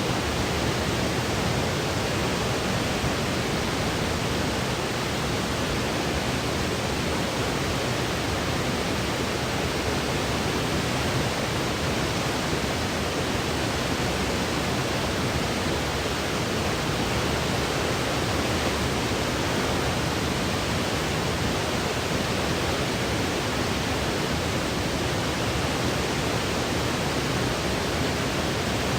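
Steady synthetic white noise for baby sleep: an even, unbroken hiss that does not change.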